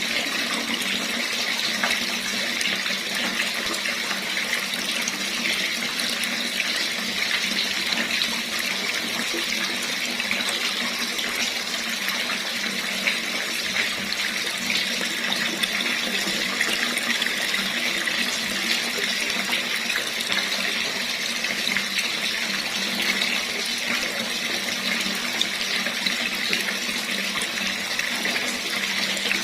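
Water running steadily from a tap, a continuous even splashing hiss.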